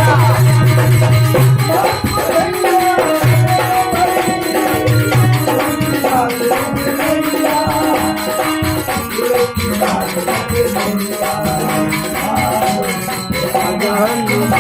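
Live devotional folk music, driven by a dholak hand drum with jingling percussion, under a wavering melody line that carries on throughout.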